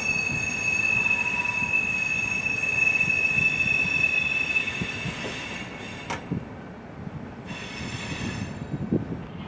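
Railroad car wheels squealing on a curve as a freight train moves slowly past. A steady high-pitched squeal fades out about halfway through, a sharp click follows, and a shorter squeal returns near the end.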